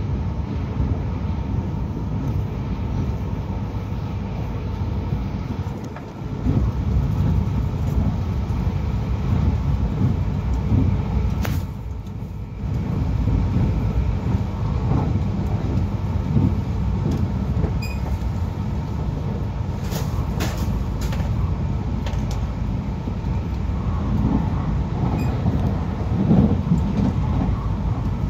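Akita Shinkansen Komachi train running at speed, heard from inside the passenger cabin: a steady low rumble of wheels on rail, with a few short clicks in the second half.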